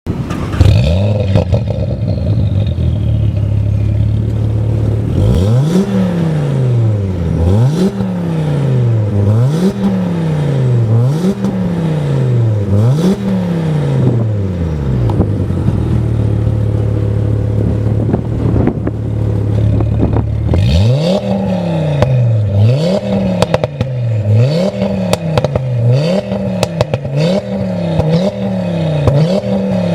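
Audi RS3 8V's turbocharged inline five-cylinder engine through an Armytrix Valvetronic exhaust, starting up and settling into a steady idle. It is then blipped about six times in quick succession, idles again, and is blipped about seven more times, with sharp crackles and pops on the overrun in the second run.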